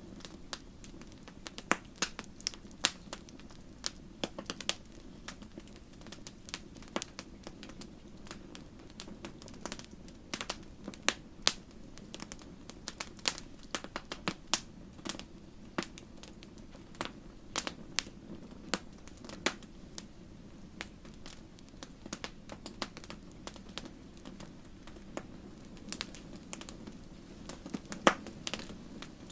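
Wood campfire burning and crackling: irregular sharp pops and snaps, several a second, over a steady low rumble of the flames.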